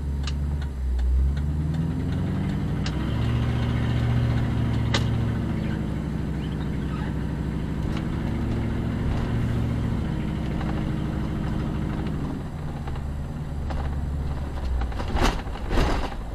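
Car engine heard from inside the car, pulling away and accelerating: its pitch rises over the first few seconds, holds steady while cruising, then drops back around ten to twelve seconds in. A couple of sharp knocks come near the end.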